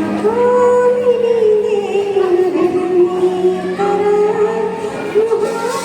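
A woman singing long, slowly gliding held notes over a steady low drone.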